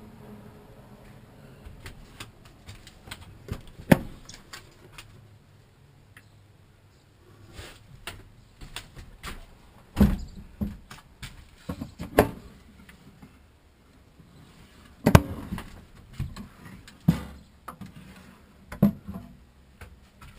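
Scattered clicks, knocks and small rattles of wooden cabinet doors and their latches being opened and shut, with a few sharper knocks about 4, 10, 12 and 15 seconds in.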